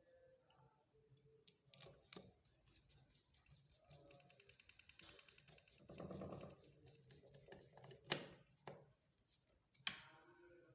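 Faint clicking and light ticking of a screw being tightened into a washing machine motor's carbon brush holder, with a run of small rapid ticks and a few sharper metal clicks about two, eight and ten seconds in.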